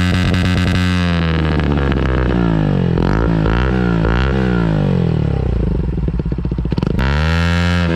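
Bajaj NS125 motorcycle engine revved again and again through an aftermarket Akrapovič-copy exhaust, its pitch climbing and falling with each throttle blip. It drops to a rough, choppy idle for about a second near the end, then revs again.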